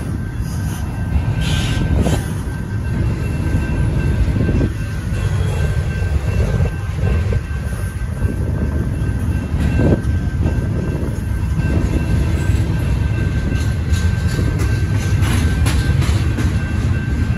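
Double-stack intermodal well cars rolling through a grade crossing: a steady low rumble with scattered clacks of wheels over the rail joints. The crossing signal bells ring steadily on top.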